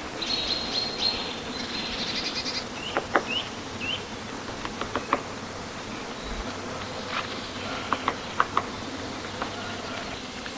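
Middle spotted woodpecker pecking at wood while digging its nest hole: scattered single sharp taps at irregular intervals. A high buzzing trill sounds in the first two seconds and a couple of short rising chirps follow.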